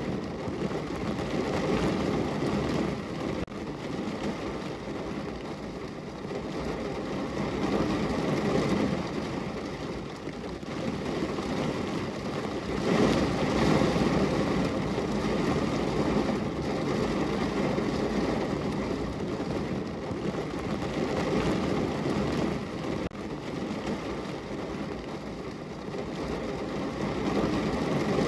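Rain falling on a window: a steady rushing noise that swells and eases every few seconds, loudest about halfway through.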